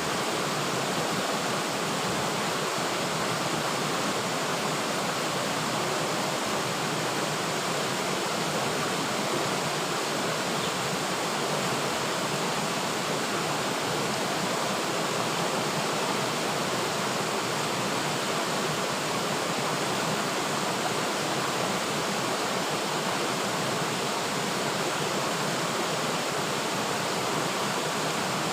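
River water flowing and rushing steadily, an even wash of sound with no breaks or changes.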